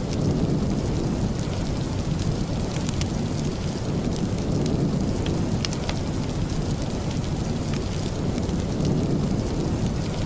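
Steady rain as an even wash of noise with a deep low rumble, and sparse sharp crackles from a wood fire scattered throughout.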